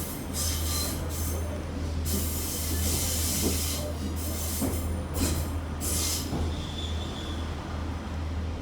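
Heritage railway train in motion, heard from on board: a steady low running drone, with several short bursts of high hissing rush over the first six seconds.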